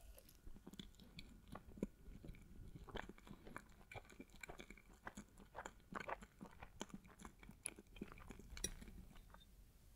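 Quiet, close-miked chewing of a bite of dense matcha chocolate cake with cream: soft, irregular wet mouth clicks and smacks.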